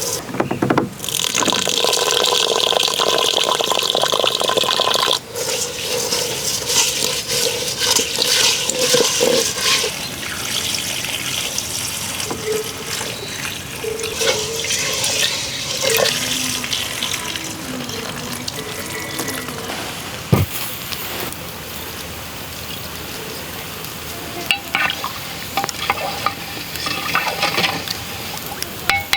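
Water running and splashing, with a noisy hiss throughout and scattered clicks in the second half.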